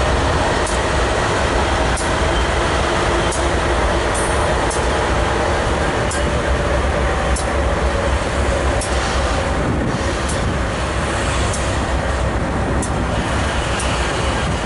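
BNSF double-stack intermodal freight train's container well cars rolling past: a steady, heavy rumble of steel wheels on rail, with a sharp click every second or so.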